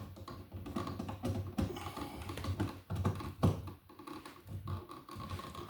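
Irregular light clicks and taps of hands working stiff electrical wires and a receptacle at an outlet box.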